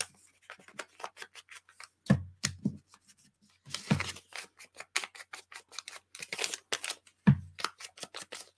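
Ink blending tool dabbed and brushed around the edges of paper: many quick scratchy strokes, several a second, with a few louder knocks.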